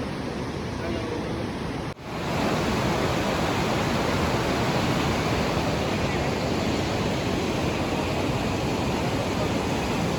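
Steady rushing of water, with no clear rhythm or tone. It drops out for an instant about two seconds in, then returns a little louder and holds.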